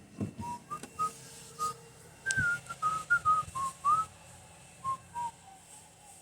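A person whistling a tune in short, quick notes that slide up and down, with a few clicks and a knock about two and a half seconds in.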